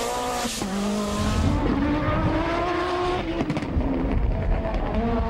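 Group B rally car engines revving hard at speed, the engine note rising and falling in pitch, with a couple of abrupt changes as the footage cuts from one car to another.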